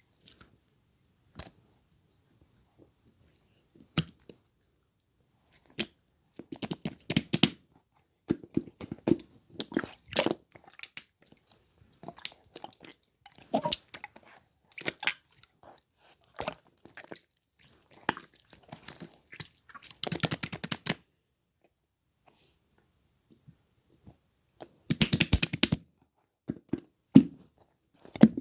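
Two-tone slime worked by hand, giving irregular runs of sharp clicks and crackles with short silent gaps between them and a longer pause a little past the middle.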